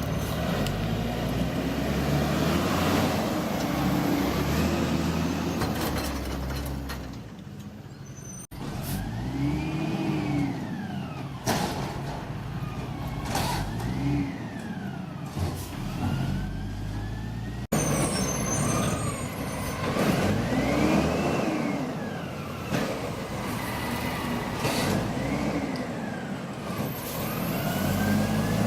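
Diesel garbage truck engine revving up and down again and again, with sharp clunks and air-brake hisses. The sound breaks off abruptly twice.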